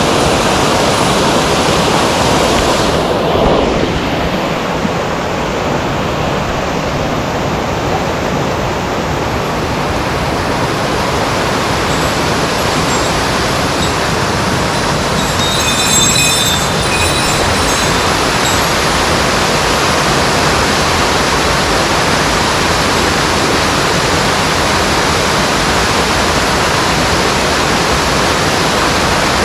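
Mountain stream water rushing over rocks, a loud steady rush of noise.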